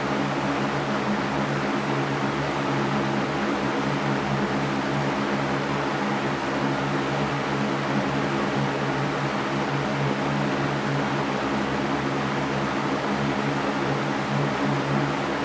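Electric fan running steadily: an even whooshing noise with a low motor hum underneath.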